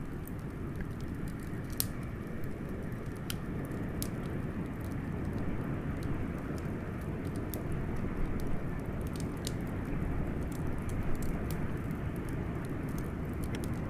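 Steady blizzard wind blowing with a wood fire crackling over it, scattered sharp pops, a few louder ones in the first few seconds.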